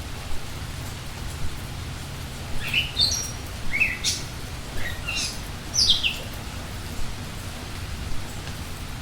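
Forest ambience with steady rain-like noise and a low rumble, and a short run of bird calls in the middle, several quick notes sweeping down in pitch.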